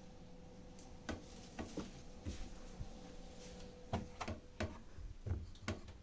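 Old Candy washing machine with a faint steady hum and irregular clicks and knocks that come more often toward the end; the hum cuts off near the end.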